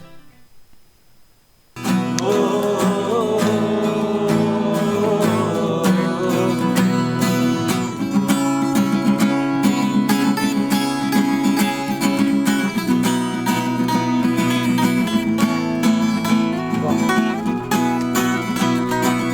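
Acoustic guitars strummed and picked, with a singing voice, starting after about two seconds of quiet.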